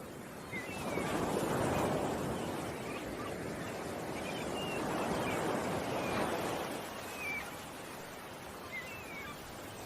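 Ocean waves washing in, swelling twice and ebbing, with small birds chirping in short high calls over them.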